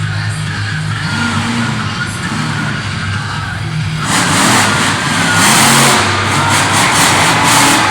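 Monster truck engine revving, its pitch rising and falling. About four seconds in, a louder rush of noise joins it.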